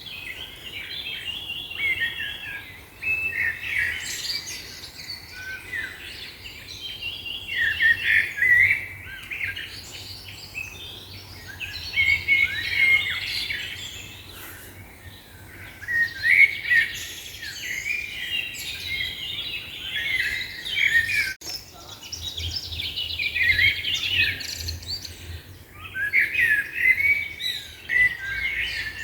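Songbirds singing, a bright chirping phrase repeated every three to four seconds.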